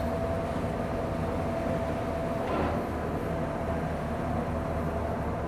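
An engine running steadily: a low rumble with a constant hum that holds the same pitch throughout.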